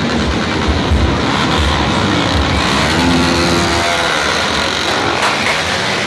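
Motorcycle engines running under way, the engine note rising and falling about halfway through.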